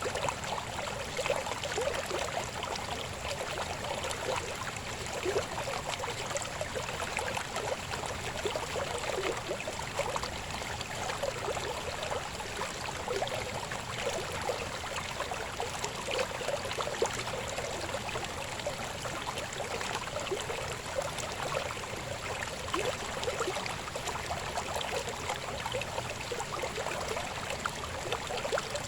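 Babbling river: a steady rush of flowing water, dense with small quick splashes that never let up.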